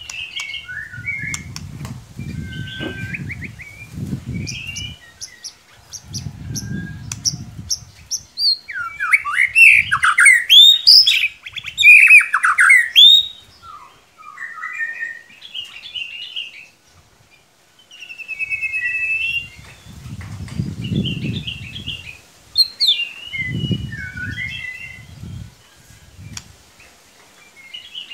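White-rumped shama singing a varied song of whistled and chattering phrases, with its loudest stretch a rapid run of rising and falling whistles about a third of the way in. Low rumbling noise comes and goes in several bursts beneath the song.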